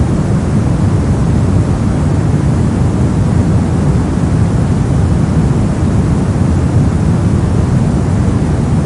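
Steady soft noise for sleep and focus: an even, unbroken rush weighted toward the deep end, like a low airplane-cabin hum, with no changes or events.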